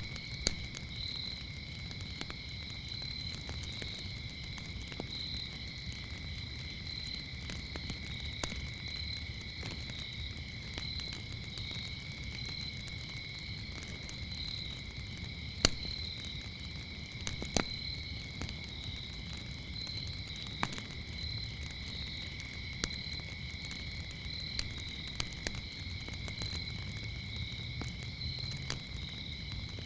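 Wood fire crackling with scattered sharp pops, the two loudest about halfway through, over steady cricket chirping: one continuous high trill and a higher, pulsing chirp.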